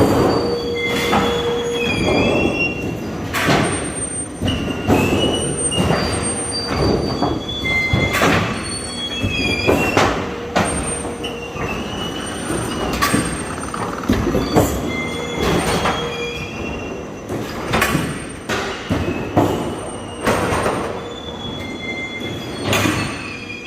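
A colour-coated roofing steel sheet production machine running, with frequent metallic clanks and knocks and short high squeals of metal rubbing on metal.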